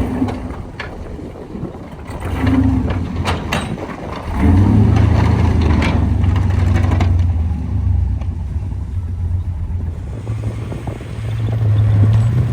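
A vehicle engine running, with a steady low hum that gets louder about four and a half seconds in, and a few sharp knocks in the first few seconds.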